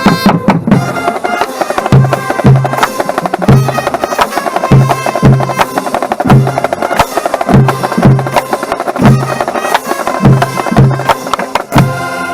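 Marching band drumline and band playing: quick snare strokes over evenly spaced bass drum hits, with pitched instruments carrying a tune above, cutting off suddenly at the end.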